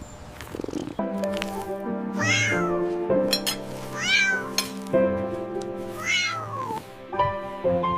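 A cat meowing three times, about two seconds apart, each call rising then falling in pitch, over background music.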